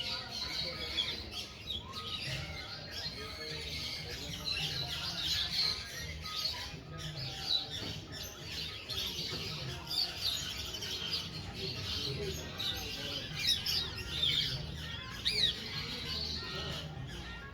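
Sun conure chirping and squawking in many short calls, some sliding in pitch.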